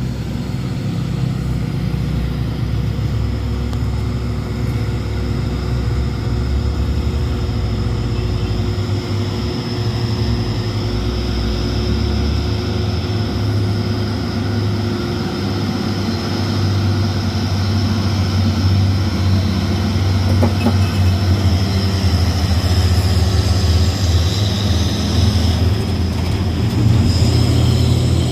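Heavy truck's diesel engine running with a low, steady drone that grows louder toward the end.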